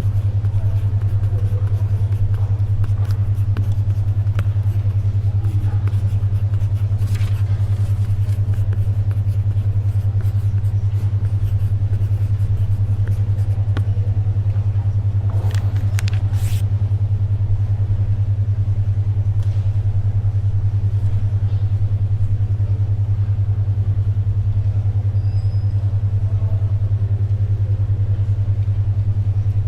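A steady low hum pulsing rapidly: a 10.2 Hz alpha-wave brainwave beat. Underneath is faint library ambience, with a paper rustle about a quarter of the way in and a couple more near the middle.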